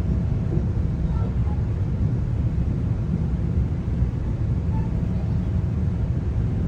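Steady low rumble inside a GO Transit passenger coach, with a faint steady hum on top.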